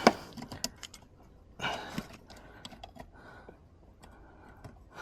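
Small clicks and rattles of hands working on car interior parts and wiring connectors: one sharp click at the start, scattered light ticks after it, and a short rustle about two seconds in.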